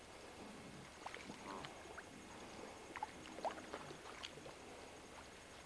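Faint, scattered short bird chirps and squeaks, the loudest about three and a half seconds in.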